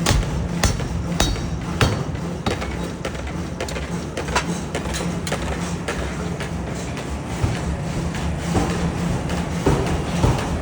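Forging hammer striking metal again and again, sharp clanging blows about every half second to second, over a steady low machine hum. The blows are clearest in the first two seconds and again near the end.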